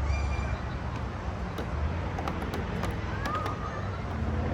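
Outdoor ambience: a steady low rumble with a brief high chirp at the start, a few short chirps about three seconds in, and scattered faint clicks.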